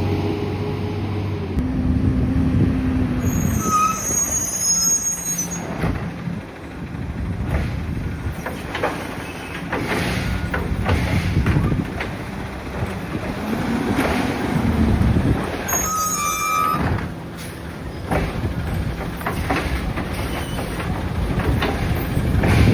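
Peterbilt 520 garbage truck with a Labrie body, its diesel engine running and revving up twice, about two seconds in and again near fourteen seconds. Short high squeals come about four seconds in and again near sixteen seconds, among repeated knocks and clanks.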